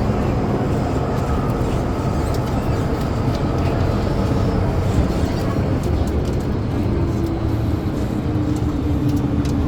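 Inside an MTR metro train running through the tunnel: a steady, loud rumble of wheels and car body. About seven seconds in, a steady motor tone joins it as the train nears the station.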